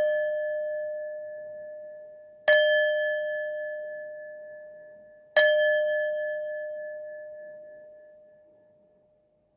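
A singing bowl struck three times, about three seconds apart, each stroke left to ring and fade slowly as one clear sustained tone.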